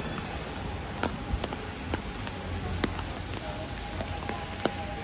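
Heavy rain falling in a city street: a steady hiss, with sharp close drops striking several times.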